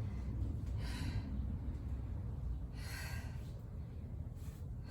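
A woman breathing hard between reps of a workout: a few loud breaths, about two seconds apart.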